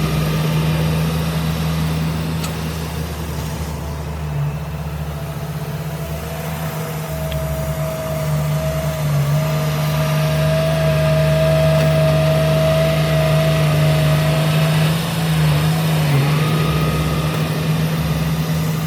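Diesel engine of heavy earthmoving machinery running steadily under load, with a thin steady whine joining in for several seconds in the middle.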